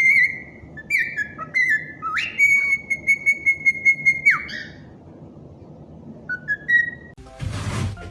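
Whistling: a run of short notes that slide up in pitch, then one steady high note held for about two seconds that drops away at its end, followed by a few faint short notes. A burst of rushing noise starts near the end.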